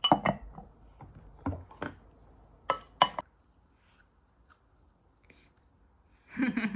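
Several sharp knocks and clicks of small hard objects in the first few seconds, then a short, louder scuffling sound near the end.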